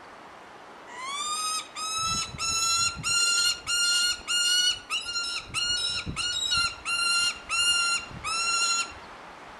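A captive bird calling repeatedly from an aviary: about thirteen loud, ringing calls, each rising in pitch and then held for about half a second. The calls start about a second in and stop near the end.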